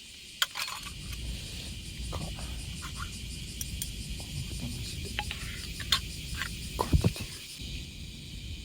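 Steady high-pitched chorus of summer insects, with scattered light clicks and knocks of gear being handled; a louder knock comes about seven seconds in.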